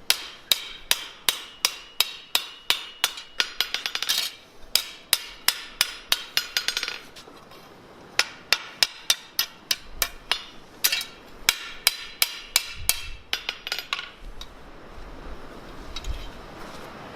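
Blacksmith's hammer striking steel on an anvil in a steady rhythm, about three ringing blows a second, while the finial is forged. The blows break off briefly about seven seconds in, resume, and stop a few seconds before the end.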